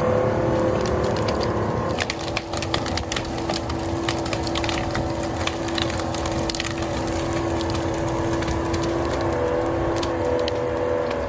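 A heavy logging machine's engine running steadily while wood cracks and splinters over several seconds, in a dense run of snaps that thins out later on, as of a tree or branches breaking.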